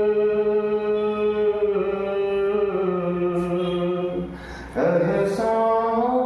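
A solo voice singing long held notes of a Hindi song without clear words, the pitch wavering slightly. About four and a half seconds in it breaks off briefly for a breath, then carries on holding the tune.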